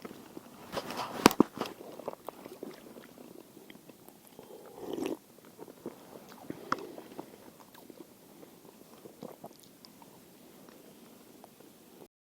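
Close handling noise: a scatter of small clicks and knocks, with one sharp knock about a second in and a short rustle around the middle.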